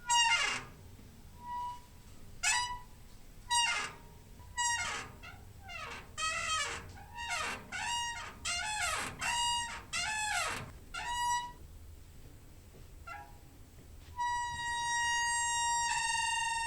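Squeaky door hinge creaking again and again: about twenty short squeaks, many sliding down in pitch, coming faster in the middle. Near the end a long, steady squeak sets in.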